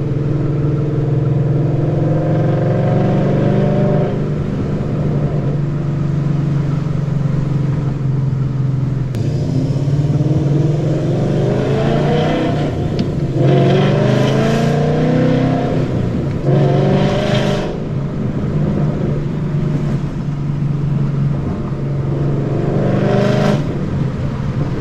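2013 Ford Mustang GT's 5.0 V8 running through BBK long-tube headers, a high-flow X-pipe and Roush mufflers: a loud exhaust note. It holds steady at first, then in the second half repeatedly climbs in pitch and drops back as the car accelerates and shifts gears.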